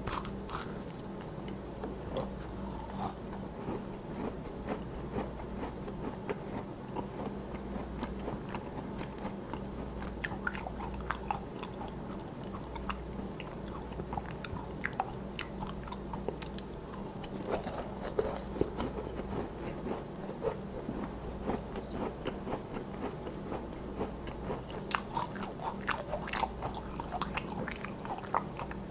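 Close-miked biting and chewing of a macaron: a bite about at the start, then many small crunching and mouth clicks as it is chewed, busier near the end. A low steady hum runs underneath.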